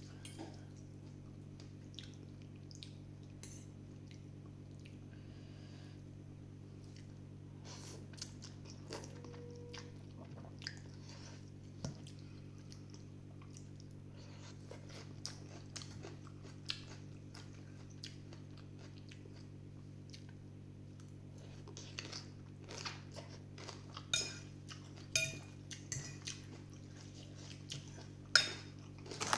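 Eating sounds: a spoon or chopsticks clinking against a bowl and chewing, scattered clicks that come more often in the last several seconds. A steady low hum runs underneath.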